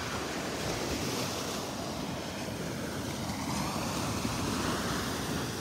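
Gulf of Mexico surf washing steadily onto the beach, with wind rumbling on the microphone.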